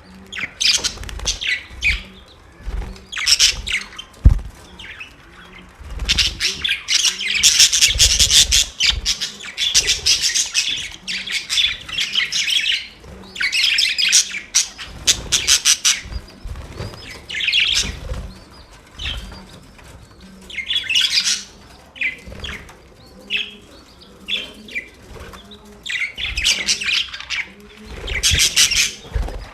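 Budgerigars chirping and warbling in fast, high-pitched bursts of a few seconds each, with short pauses between.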